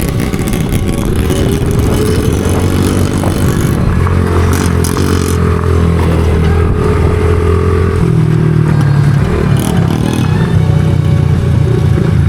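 Small single-cylinder pit bike engine running under way. The engine note holds steady, then shifts pitch about eight seconds in.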